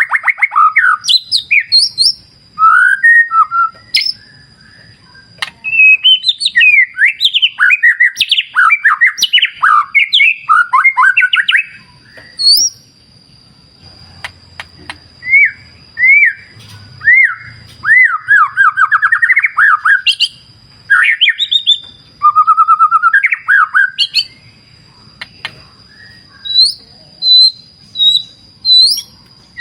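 White-rumped shama singing: loud, varied whistled phrases, rising and falling sweeps and rapid trills, in bursts broken by short pauses. A thin, steady high-pitched tone runs underneath.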